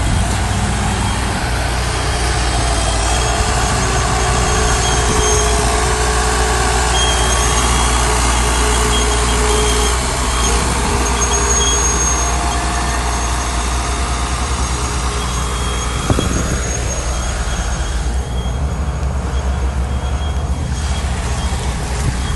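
Heavy diesel earthmoving machinery running steadily at work, with a constant low engine drone. Faint high-pitched squeals come and go over it, and there is a single sharp knock about two-thirds of the way through.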